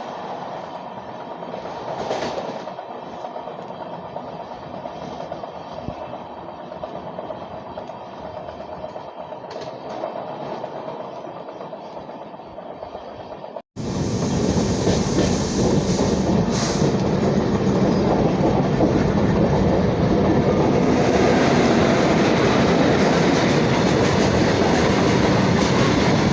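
LHB passenger train running along the track: steady wheel-and-rail running noise. About halfway through there is an abrupt cut to a louder, fuller stretch of the same running noise.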